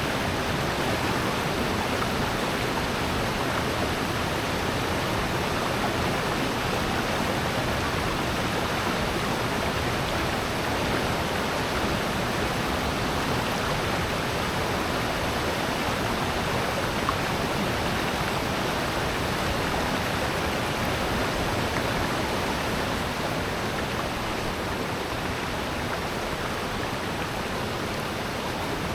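Rushing water in a mountain valley stream, a steady, even rush that holds without change.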